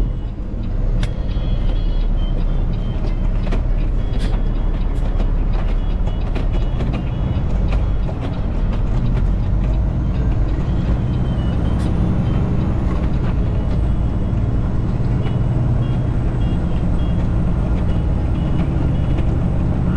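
Semi truck running down the road: a steady low engine rumble with road noise and scattered sharp clicks.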